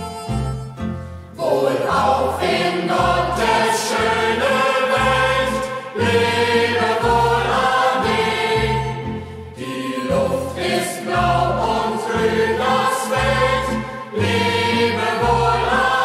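Youth choir singing a German Fahrtenlied (hiking song) together over instrumental accompaniment with a steady bass line. The voices come in about a second and a half in, after a short instrumental passage.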